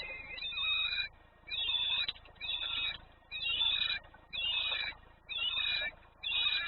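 A bird at the nest calling over and over, about one call a second, each call about half a second long, with pitch sweeping up and down.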